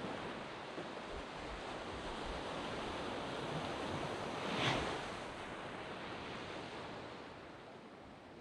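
Waves breaking on a sand beach, a steady surf wash with one louder wave crashing about halfway through, then easing off.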